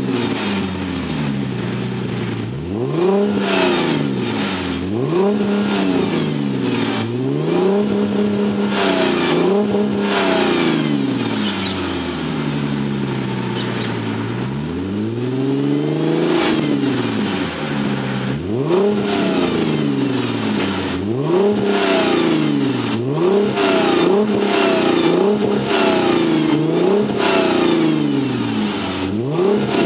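Chrysler LX-platform V6 being revved through an aftermarket dual-exit rear muffler with 100 mm double-wall tips. The throttle is blipped about fifteen times, the pitch rising and falling each time, with one slower, longer rev midway. The exhaust note is a deep bass tone.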